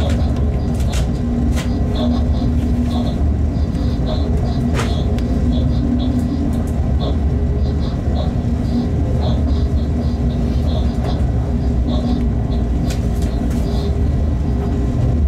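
Freight train running, heard from the locomotive cab: a steady low rumble with scattered sharp clicks from the track.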